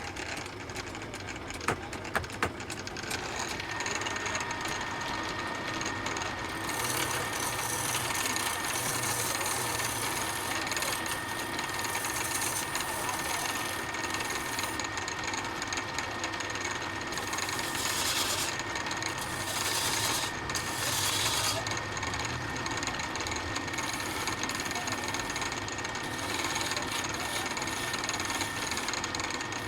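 Woodworking power tool running steadily with a constant whine, working wood, with a few sharp clicks about two seconds in.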